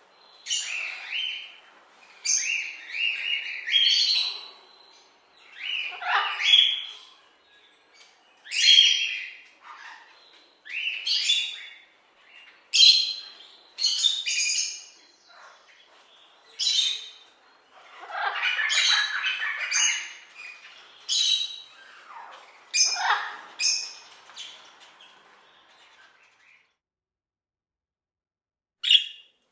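Parrots squawking: harsh screeching calls, singly or in short runs every second or two, falling silent for a couple of seconds near the end before quicker, shorter calls begin.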